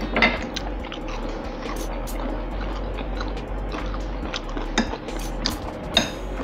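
Close-miked eating: wet chewing and mouth clicks with a few sharper fork clinks on the plate, over a steady low hum.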